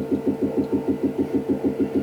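Wash station's liquid pump running with a rapid, even pulsing, several pulses a second, as it tries to draw water in from the tanks and purge air from the lines.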